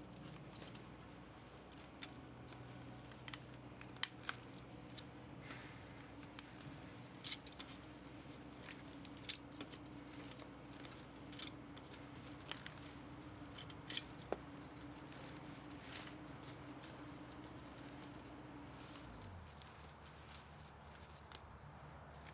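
Irregular sharp clicks and snips of hand tools working the metal of an electric pump motor being stripped for scrap, over a steady low hum that stops about 19 seconds in.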